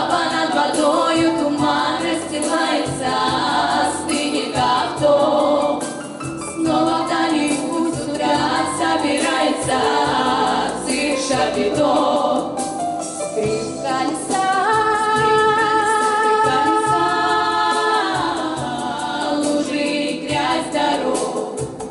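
Vocal quartet singing in close harmony with no clear words, then holding one long chord about two-thirds of the way through.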